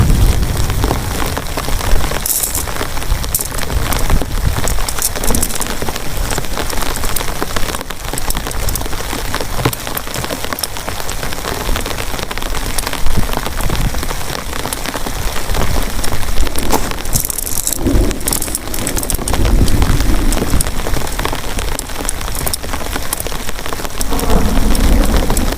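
Heavy rain falling steadily, with low rumbles of thunder swelling up about three-quarters of the way through and again near the end.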